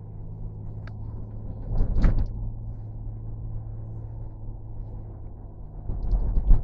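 Vehicle engine running steadily with a low hum, with two louder thumps and rattles, about two seconds in and again near the end.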